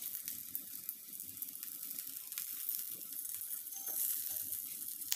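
Beetroot cutlets sizzling as they shallow-fry in ghee in a nonstick frying pan, with a steady fizzing crackle and a few light clicks from a silicone spatula turning them.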